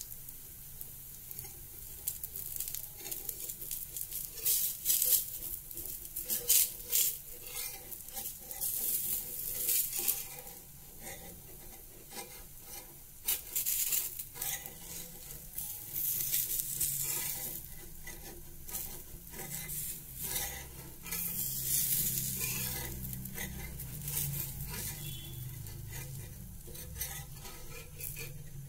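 Besan chilla batter sizzling in oil on a hot tawa: a steady crackling fry with louder bursts of crackle now and then.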